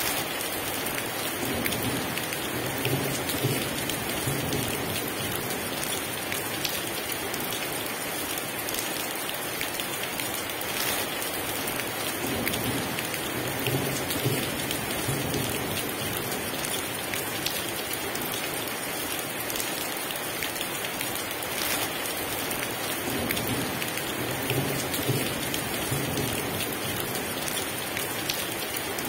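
Heavy rain pouring steadily, with low thunder rumbling three times: near the start, about halfway, and toward the end.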